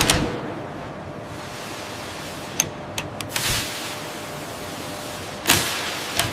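Steady factory-floor noise with scattered sharp clicks and knocks, and a sudden loud burst of noise about five and a half seconds in.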